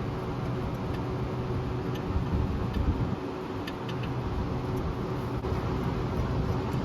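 A few light metallic ticks from a ratchet backing out a small 8 mm bolt on the parking-brake bracket, over a steady low hum in the shop.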